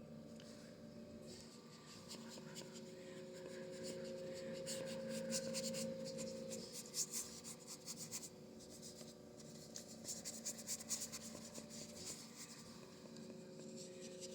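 A paintbrush scrubbing and dabbing acrylic paint on a canvas in quick runs of scratchy strokes, busiest in the middle. A faint steady hum sits underneath.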